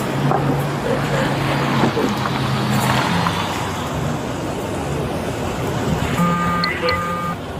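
Steady street traffic and vehicle engine noise with a low hum. Near the end comes a brief tone in two parts.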